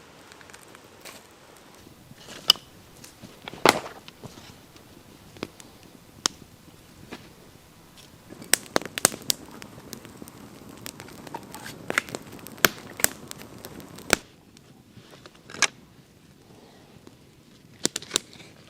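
Wood fire of small dead branches crackling as it catches, with sharp irregular cracks and pops, thickest in the middle.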